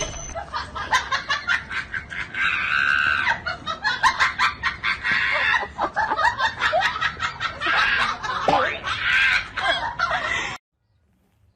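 Repeated short, squawking animal calls among clicks and taps, cutting off suddenly about ten and a half seconds in.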